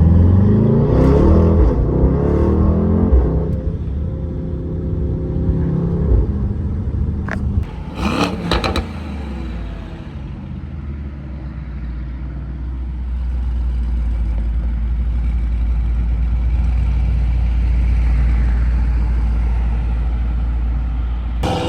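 Mercedes-AMG GT63 S twin-turbo V8 with a custom straight-piped exhaust, heard from inside the cabin: it pulls hard in the first few seconds with a rising engine note, gives a short burst of clattering crackles about eight seconds in, then settles into a steady low drone while cruising.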